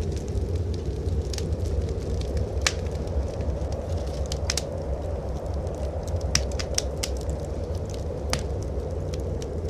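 Wood fire crackling in a fireplace, with irregular sharp pops and snaps scattered through, over a steady low rumble of blizzard wind.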